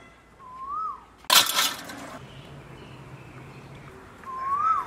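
A bird calls twice, a short whistle that rises and falls, once at the start and again near the end. Between the calls comes a sudden loud noise that fades within a second.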